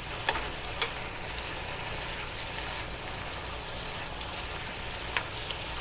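Vegetables and pineapple sizzling steadily in a hot pan as their water cooks off, with a few sharp ticks.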